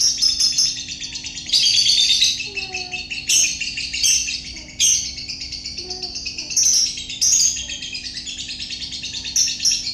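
Lovebird singing its ngekek, a long, unbroken, rapid chattering trill of shrill chirps. It swells into louder bursts every second or two.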